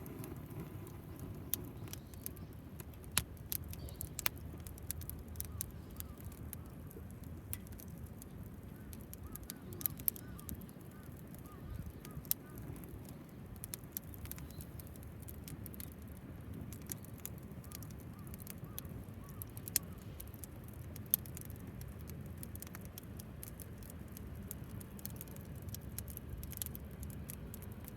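Wood fire burning in a homemade tower-type fire stand: irregular sharp pops and crackles over a steady low rush of flame.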